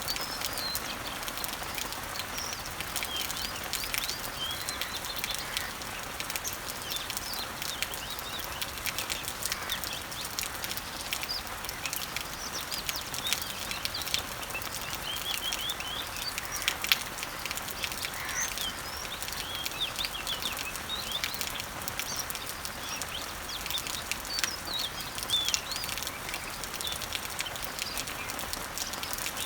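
Rain falling on garden leaves and trees as a steady hiss with many small drop ticks, while small birds chirp in short, repeated calls throughout.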